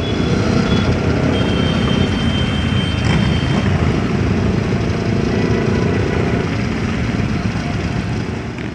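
Many motorcycle engines running together in a steady mass of engine and traffic noise.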